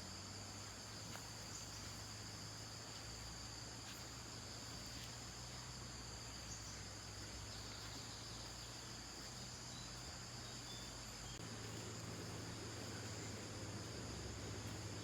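Insects chirping in a steady, continuous high chorus, with a low steady hum underneath that gets a little louder near the end.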